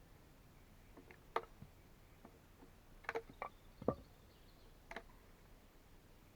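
Sparse light clicks and knocks, about six over several seconds, the loudest a little under four seconds in.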